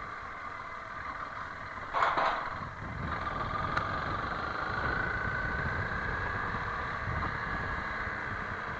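Honda CRF300L Rally's single-cylinder engine running steadily as the bike rides along, with a short louder rush about two seconds in.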